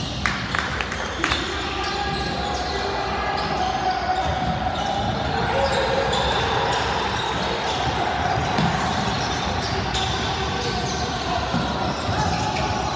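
Basketball game in a gym: the ball bouncing on the hardwood court, with sharp knocks in the first second or so, over steady indistinct talk from players and spectators echoing in the hall.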